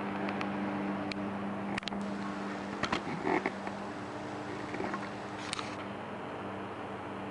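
Steady low hum of shop background noise, with scattered light clicks and taps from small items being handled and a brief rustling clatter about three seconds in.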